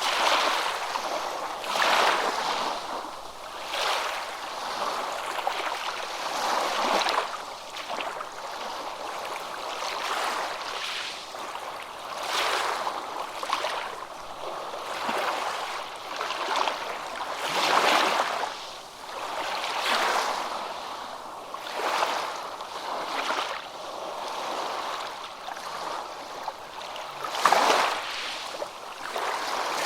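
Small waves lapping: a rush of water that swells and fades roughly every two seconds.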